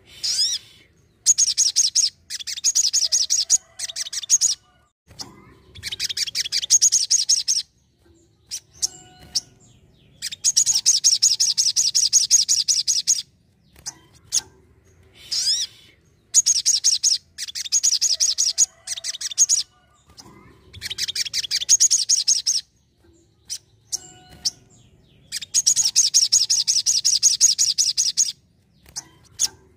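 Sogon, a small sunbird, singing in repeated bursts of fast, high twittering chatter, each burst one to three seconds long with short pauses between.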